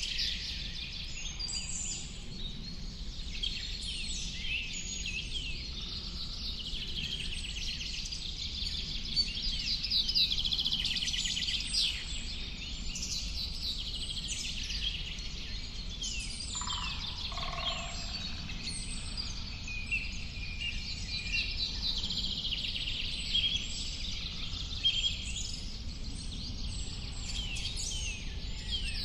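Many birds singing at once, a dense chorus of quick high chirps and trills, over a steady low background rumble. About two-thirds of the way through, a lower-pitched call of a few notes stands out.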